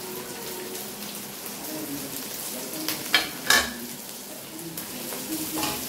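Chopped vegetables stir-frying in hot oil in a kadhai: steady sizzling, with a few sharp knocks against the pan about three seconds in and again near the end.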